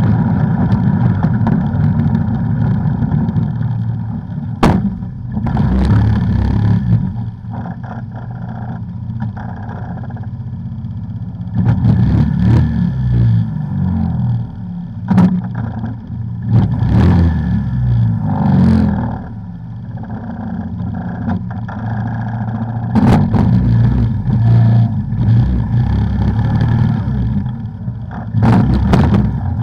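ATV engine running on a trail, its revs rising and falling again and again. A few sharp knocks and some clatter come through, the loudest about four and a half seconds in and near the end.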